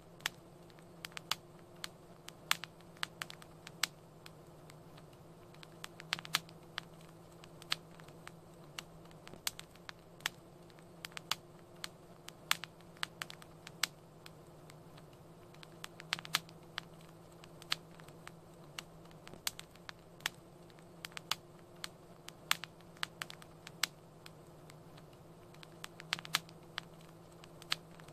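Wood fire crackling in a fireplace: irregular sharp pops and snaps, several a second, over a low steady hiss and faint hum.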